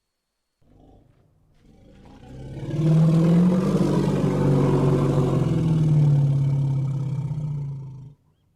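Elephant roaring: one long, low call that swells up over about a second, holds for about five seconds and cuts off suddenly.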